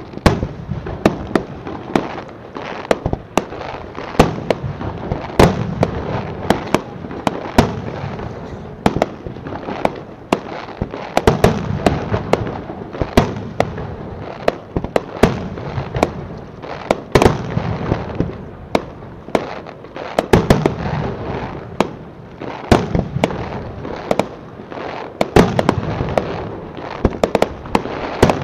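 Aerial fireworks display: a rapid, irregular string of shell bursts and bangs, dozens of them, over a continuous low rumble between the reports.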